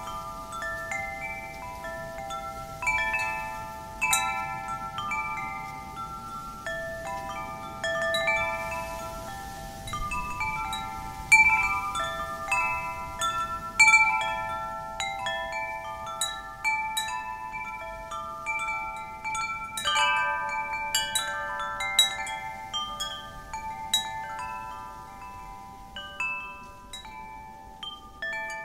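Wind chimes stirred by the wind, their tubes struck at irregular moments so that several bright, ringing notes overlap and fade, in clusters of strikes that come thickest toward the middle. A faint wind rushes underneath.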